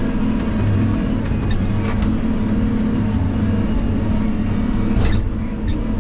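Vehicle engine running steadily with a low drone, with a couple of brief knocks or rattles, one about two seconds in and one near the end.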